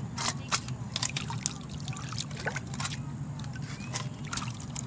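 Shallow creek water trickling, with scattered light clicks and splashes.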